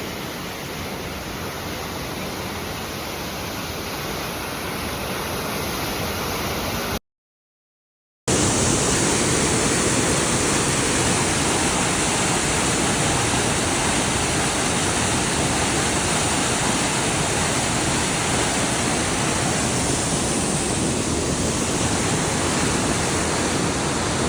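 Loud, steady rushing of a rain-swollen creek in flood. It breaks off for about a second roughly seven seconds in, then comes back louder and closer.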